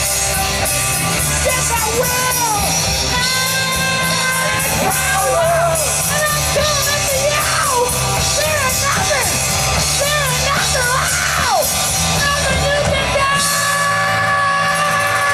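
Live hard rock band playing loud: bass and drums under a bending, wavering lead line. About two seconds before the end, the band settles onto a held chord.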